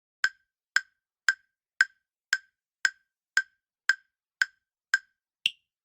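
Quiz countdown-timer sound effect: eleven short, dry clicks about two a second, the last one higher-pitched, marking the end of the answer time.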